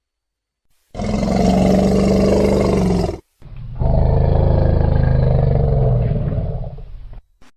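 Two deep, drawn-out creature roars made as sound effects for Sarcosuchus, a giant prehistoric crocodilian. The first comes about a second in and lasts about two seconds; after a brief break a longer second roar follows and fades out.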